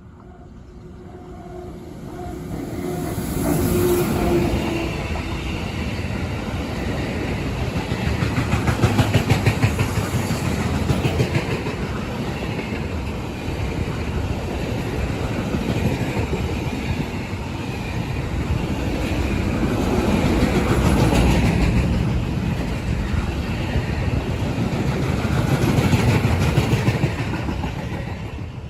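A train passing by on the line, growing louder as it approaches and then running past for over twenty seconds with a steady clatter of wheels over the rails.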